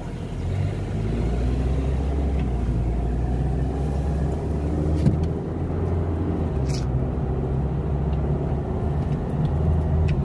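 Car engine and road noise heard from inside the cabin as the car pulls away and drives on: a steady low engine drone that grows louder about half a second in.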